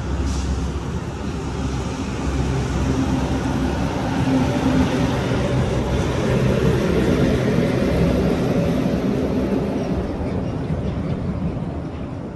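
Heavy hauling truck's diesel engine running with a deep, steady drone that swells through the middle and fades near the end, as a truck passing by would.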